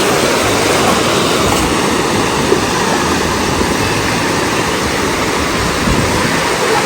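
Sea waves breaking on a beach: a steady, loud rush of surf.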